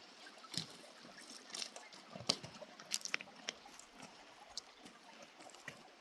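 Scattered small clicks and taps over faint running water.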